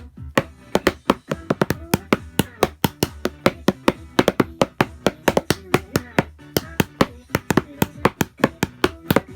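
Drum kit played along to the song's backing track, with a quick, steady run of hits, several a second, over the song's pitched music and vocal.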